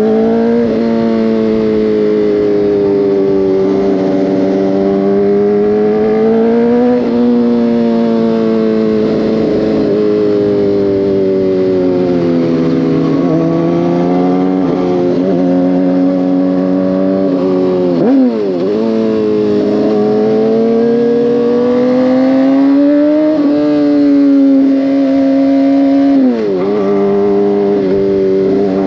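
Motorcycle engine running on the road, its pitch climbing and sagging with the throttle through repeated speed-ups and slow-downs. There are sudden drops in pitch about two-thirds of the way in and again near the end.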